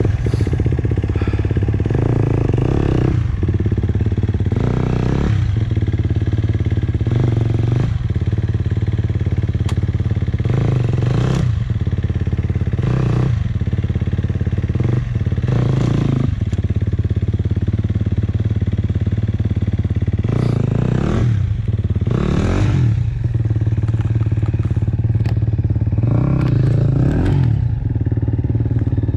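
1996 Maico 440's two-stroke single-cylinder engine running under way, revved up every two to three seconds, with some clatter.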